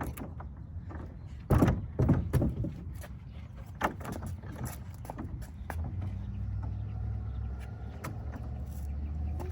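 A few knocks, then a motor vehicle's engine rumbling steadily and growing louder from about six seconds in.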